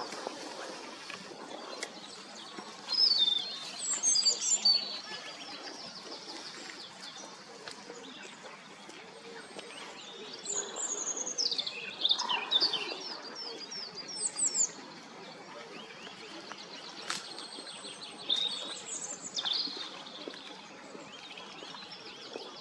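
Small songbirds singing in short, high chirping and trilling phrases every few seconds, over steady background noise.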